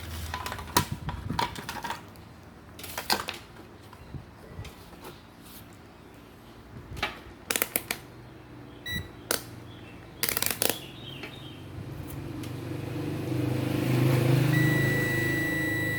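Clicks and knocks of small parts being handled, with a brief beep about nine seconds in. Near the end a multimeter's continuity buzzer starts a steady high beep as the probes bridge the fan controller's fuse, showing the fuse is intact.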